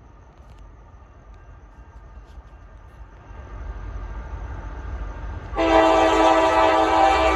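Norfolk Southern freight locomotives rumbling closer, growing louder, then the lead locomotive's air horn sounding a long, loud chord of several notes that starts abruptly about five and a half seconds in and is still held at the end.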